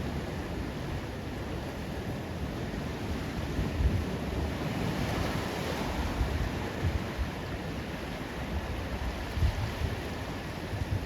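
Ocean surf washing onto a beach, swelling a few seconds in, with wind rumbling on the microphone.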